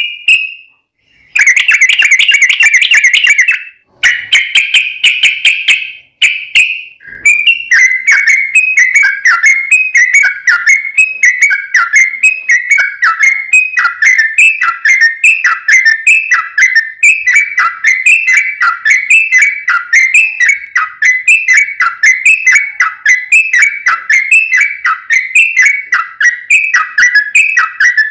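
Yellow-vented bulbul song: two short bursts of rapid warbling trill, then from about seven seconds in a long run of quick, repeated down-slurred whistled notes, about three a second.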